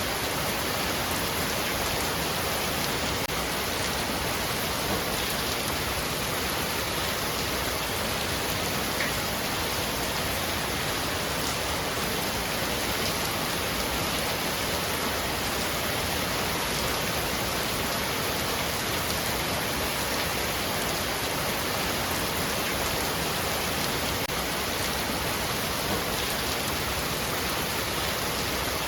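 Heavy rain falling steadily on a roof, a dense, even hiss of drops with a few sharper single drop ticks.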